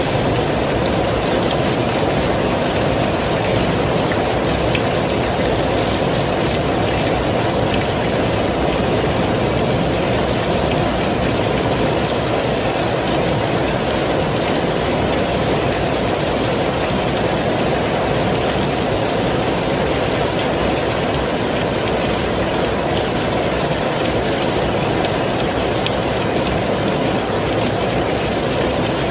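Heavy rain falling steadily, an even rushing noise with no breaks or changes.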